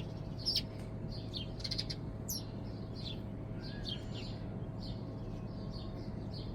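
Sparrows chirping: many short, high, falling chirps at an irregular pace, over a faint steady low hum.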